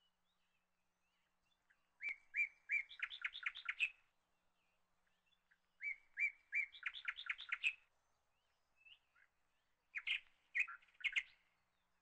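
A songbird singing three short phrases, each a few separate clear notes running into a quick series of notes, with short pauses between the phrases.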